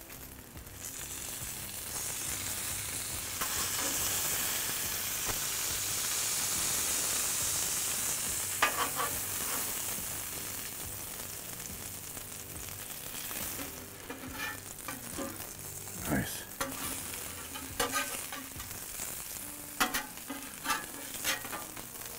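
Taco tortillas sizzling in fat on a Blackstone flat-top griddle, the sizzle loudest in the first half and then easing. Several sharp clicks and scrapes of a metal spatula against the steel griddle plate come in the second half.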